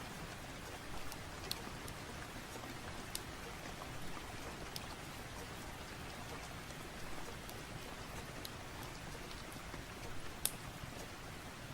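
Steady rain falling, an even hiss with scattered sharp ticks, the loudest one near the end.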